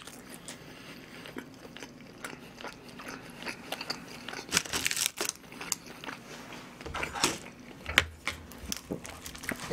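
Close-miked chewing and biting of food: irregular crisp crunches and clicks from the mouth, a few louder crunches about five seconds in and near the end.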